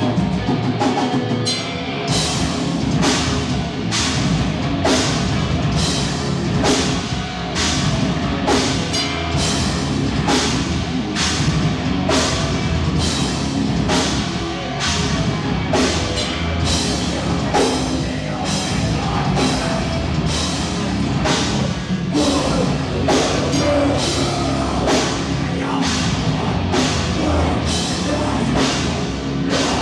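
A live heavy rock band playing loud through a venue PA, recorded from the crowd, with drums hitting a steady beat. The full band fills in about two seconds in after a thinner start.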